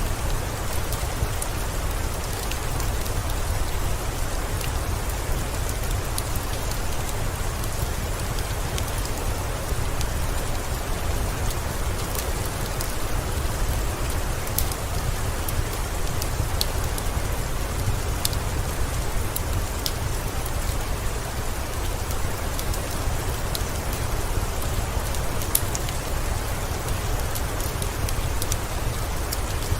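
Steady rain falling, with a strong low rumble underneath and scattered sharp crackles and pops from a wood fire in a fireplace.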